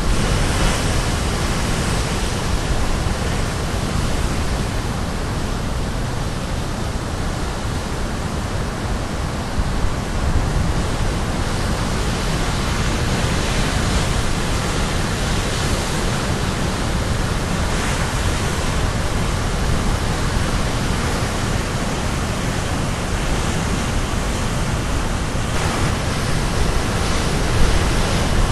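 Caribbean Sea surf: waves breaking and washing ashore in a steady rushing roar with a deep rumble, swelling as a wave breaks about every eight seconds.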